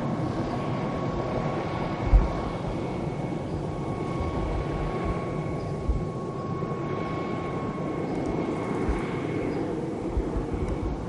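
Helicopter flying overhead: a steady engine drone with a faint turbine whine, and a few low bumps, the loudest about two seconds in.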